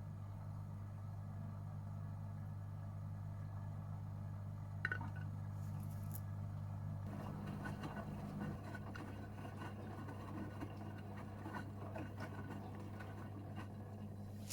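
Gorenje UseLogic 65165 washing machine running mid-programme, with a steady low hum. About halfway through, a rougher, busier noise joins the hum, after a single click a little earlier.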